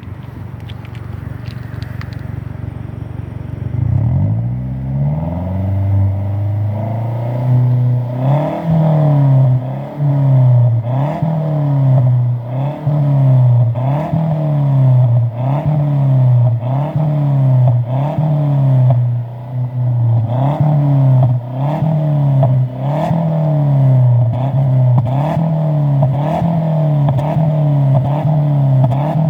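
Mazda 3 MPS 2.3-litre turbocharged four-cylinder exhaust, running low and steady at first, then rising in pitch after about four seconds. From about eight seconds in it is revved up and let fall again over and over, about once every second and a half.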